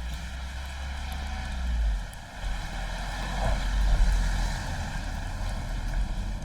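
Wind buffeting the microphone in a low, gusty rumble that drops out briefly about two seconds in, over a rushing hiss of outdoor air.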